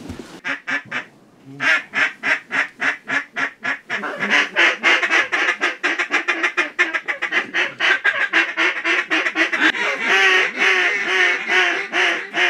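Duck calls blown in a fast, loud run of quacks, about four or five a second. The run pauses briefly about a second in and gets busier about four seconds in, as the hunters call to an incoming group of teal.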